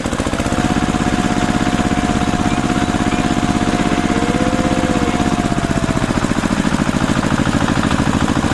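Small tractor engine chugging steadily with a fast, even pulse. A thin held tone sounds over it for the first five seconds or so, with a brief rising-and-falling tone near the middle.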